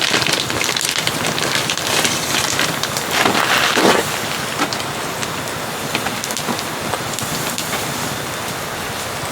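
Steady rain falling, with many single drops ticking sharply on a nearby surface; the rain swells louder for about a second around three seconds in.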